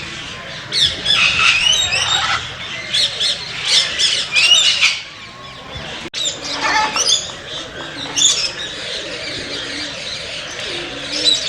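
Birds squawking and chattering: dense bursts of short, high, sliding calls for the first few seconds, then scattered single calls.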